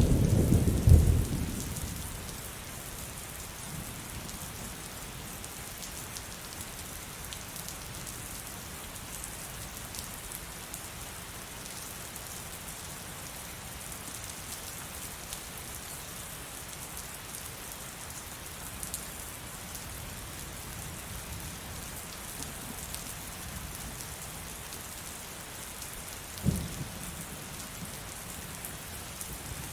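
Steady heavy rain falling, with a low rumble of thunder that dies away in the first two seconds. A brief low thump sounds near the end.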